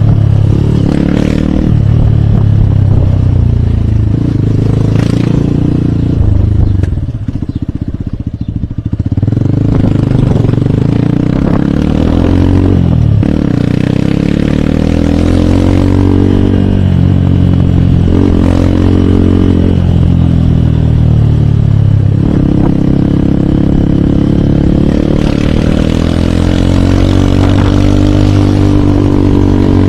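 Hero Hunk motorcycle's single-cylinder air-cooled 150 cc engine running on the move. The revs rise and drop through gear changes, and the engine eases off briefly about seven seconds in before pulling again. Near the end it climbs steadily in pitch.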